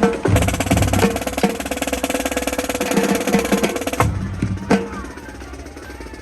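Music with busy drumming: snare drum rolls over bass drum. The drumming breaks off about four seconds in, and after one more hit a quieter stretch follows.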